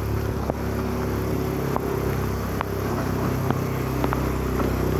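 A motor vehicle engine running steadily, with scattered sharp ticks over it.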